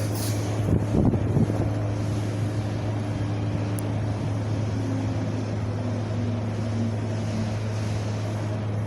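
Wind blowing steadily, with a constant low rumble.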